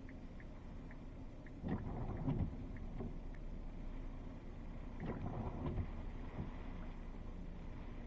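Thunderstorm ambience: a steady low rumbling wash that swells louder about two seconds in and again about five seconds in, with faint regular high ticks in the first few seconds.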